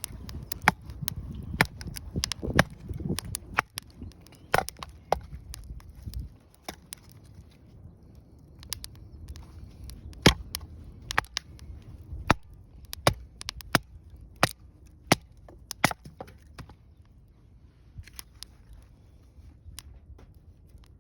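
Wood fire crackling, with irregular sharp pops several times a second; a low rumble in the first six seconds dies away.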